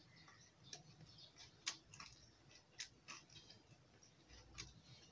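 Faint chewing of a crisp, deep-fried bread pakoda: a handful of scattered crunches and clicks, the sharpest about a second and a half in and again near the three-second mark, over otherwise near silence.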